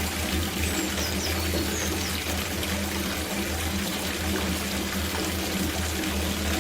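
Water pouring steadily from a tap into a copper bathtub as it fills, a continuous rushing splash.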